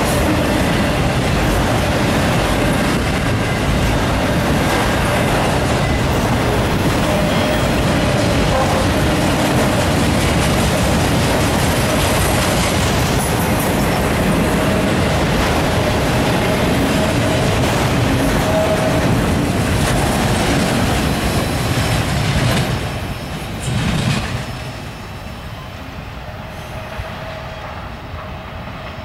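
Autorack freight cars rolling past close by, a steady, loud rumble of wheels on rail. About 23 to 25 seconds in the noise drops away as the end of the train passes and the train recedes.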